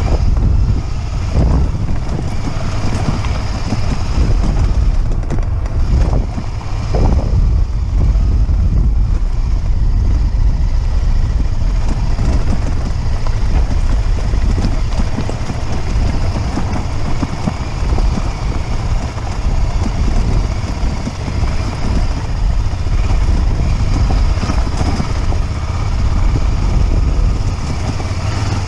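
Motorcycle under way, its engine running steadily beneath heavy wind noise on the microphone.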